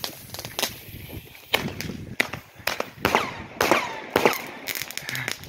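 Flashbang firecrackers going off: about a dozen sharp bangs in quick, irregular succession.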